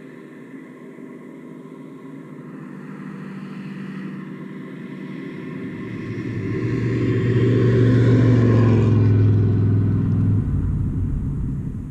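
1974 Chevy K20 pickup's 350 V8 on straight true dual pipes with glasspack mufflers, driving past. Its exhaust note grows louder for several seconds, is loudest about two-thirds of the way in, then drops and fades as the truck goes by.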